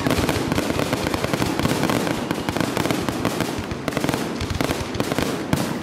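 Aerial fireworks shells bursting in a dense, continuous barrage of rapid bangs and crackles with no break.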